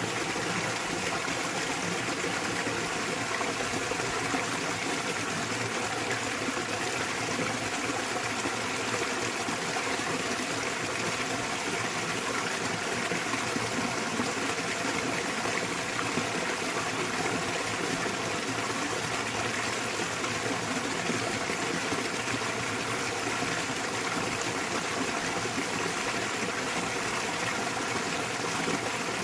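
Small waterfall in a mountain stream, water falling and splashing steadily.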